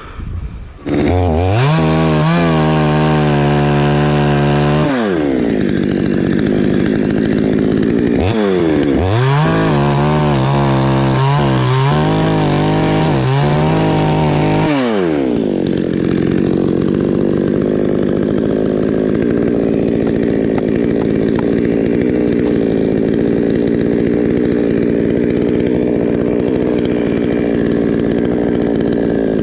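A two-stroke chainsaw starts about a second in and is revved up twice to a high, steady pitch, dropping back to idle between. After about fifteen seconds it settles into a steady, lower-pitched run with more rasp, as when the chain is cutting into the coconut trunk under load.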